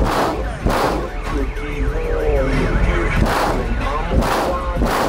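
Very loud bass-heavy music from a truck's car stereo, driven by twelve Sundown SA-10 subwoofers on two DC Audio 3500 amplifiers: a deep, steady bass line with a hard hit a little under once a second, and a wavering siren-like tone in the middle. The truck has no sound deadening.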